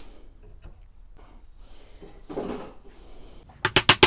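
Light handling and a soft rub on the wood, then near the end a fast run of sharp strikes, about eight a second, from hand-tool work on a hickory axe handle being reshaped to fit the axe head.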